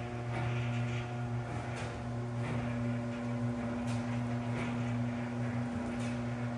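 Motorline KVM110 garage door operator running, a steady electric motor hum with a few light clicks from the moving door.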